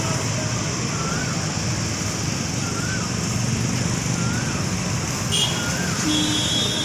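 Steady rumble of road traffic and a running vehicle engine. A short rising-and-falling chirp repeats about once every second and a quarter, and a steady tone comes in near the end.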